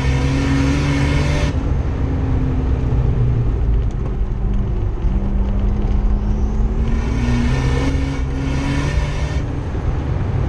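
Nissan R31 Skyline's engine heard from inside the cabin under hard acceleration, rising in pitch and then backing off about a second and a half in. It runs quieter through the middle, then pulls hard again with rising pitch from about seven seconds in before easing off near the end.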